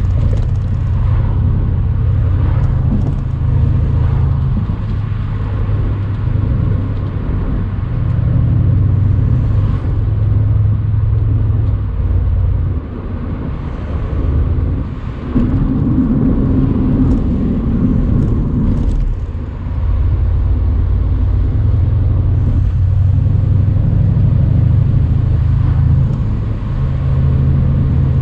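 Mercedes-AMG C63 cabriolet's twin-turbo V8 pulling steadily while driving. About halfway through, the engine note dips briefly, then rises in pitch for a few seconds before settling back to the lower steady drone.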